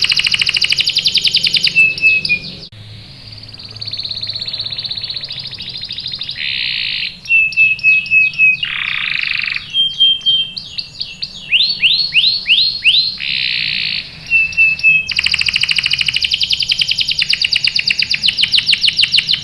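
Domestic canary singing a long song of rapid trills and repeated chirps, switching to a new phrase every second or two, with a softer stretch about three seconds in.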